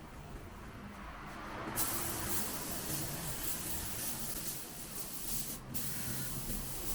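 Paint being sprayed: a steady hiss starts about two seconds in, breaks off for a moment near the end, then resumes.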